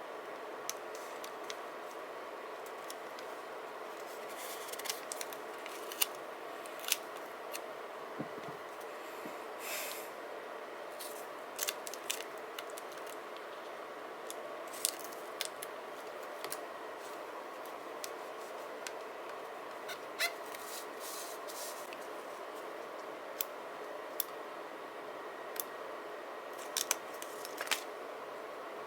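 Scissors snipping and paper or sticker sheets being handled: scattered sharp clicks and snips, about fifteen in all, with a longer rustle about ten seconds in, over a steady low hum.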